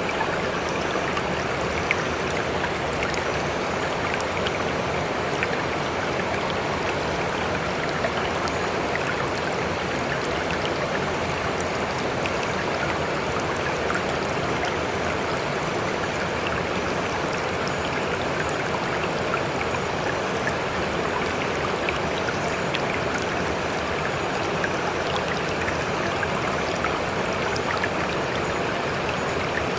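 Running stream: a steady, even rush of flowing water with scattered small splashes.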